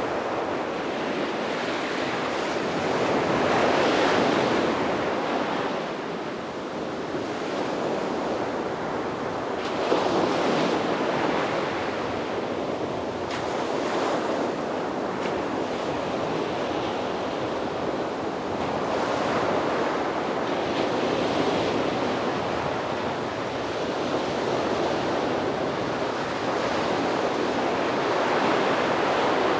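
Sea waves breaking and washing up a beach, the surf swelling and falling back every few seconds, with a sharper crash of a breaking wave about ten seconds in and some wind on the microphone.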